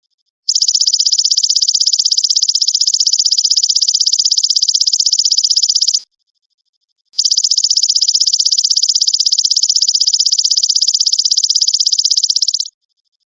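Belalang emas (golden grasshopper) singing: two long, high-pitched, fast-pulsed buzzing trills of about five seconds each, with a pause of about a second between them.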